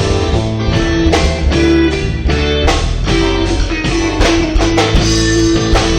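Live rock band playing an instrumental passage: strummed guitar chords with regular attacks about twice a second over bass and drums.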